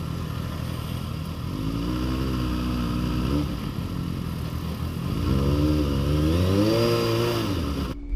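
Motorcycle engine running at low road speed, its pitch rising and then dropping back twice, over a steady rush of wind and road noise on the onboard microphone.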